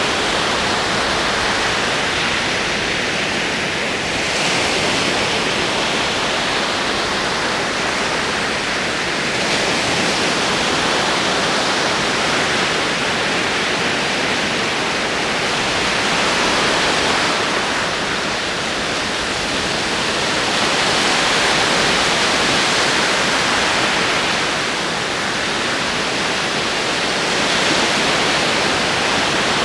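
Ocean waves rolling in a continuous dense wash of surf, swelling gently every few seconds.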